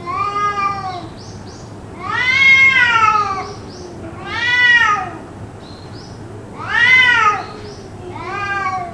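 Cat yowling over and over: five long drawn-out calls, each rising and then falling in pitch, with a fainter, lower drawn-out tone beneath the first. The kind of endless caterwauling the uploader wonders is a cat fight.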